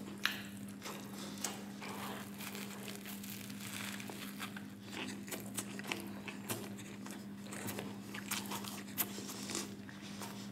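Close-miked chewing of a Flamin' Hot Cheetos-crusted burger, a crisp coating crunching with many small crackles.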